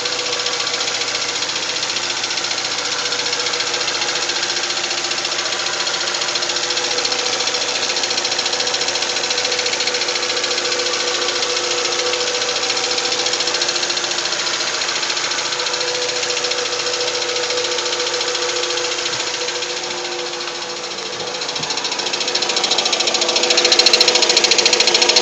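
Nissan QG18DE four-cylinder engine running at a steady idle with a fast, even clatter. The clatter comes from a cracked flexplate (drive plate) between the engine and the automatic gearbox. It grows louder in the last few seconds.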